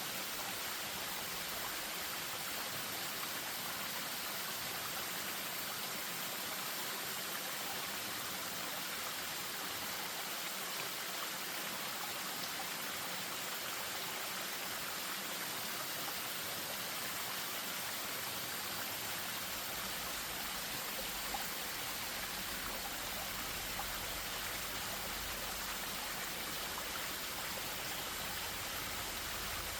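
Spring-fed stream running over a small waterfall: a steady rush of flowing water. A low rumble joins about two-thirds of the way in.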